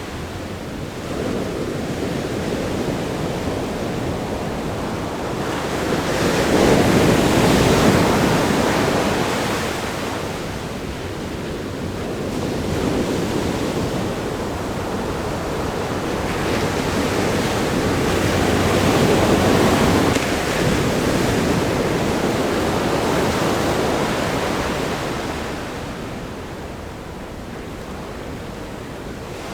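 Ocean surf breaking on a rock groin at a sandy beach: a steady wash of noise that swells twice as waves break, about a quarter of the way in and again past the middle, then eases off near the end.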